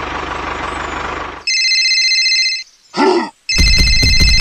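An engine running steadily with a fast low rhythm cuts off abruptly about a second and a half in. An electronic ringing tone follows, stops for a moment around a brief squeaky voice-like sound, and comes back over a fast, heavy rattling.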